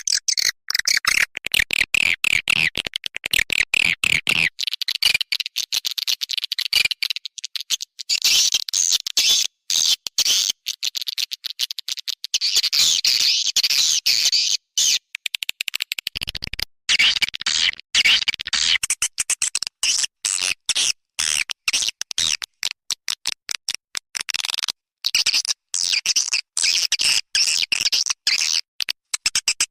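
Swiftlet lure call recording: dense, rapid high-pitched twittering and chirping of swiftlets, broken by many short gaps. It is a call sound played to draw swiftlets into a nest house.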